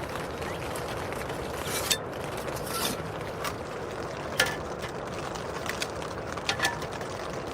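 Rain falling steadily on the tent fabric, an even hiss, with a few sharper taps of drops or small knocks now and then.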